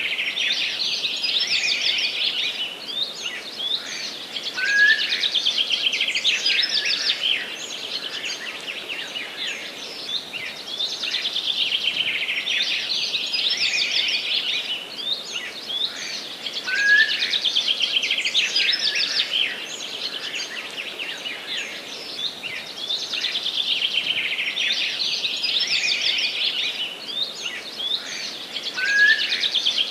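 Songbird singing fast, twittering trilled phrases a few seconds long, one after another with barely a pause, and a short rising note about every twelve seconds.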